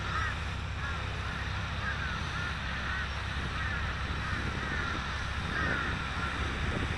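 Birds calling over and over, short rising-and-falling calls coming several times a second, over a steady low rumble of wind on the microphone.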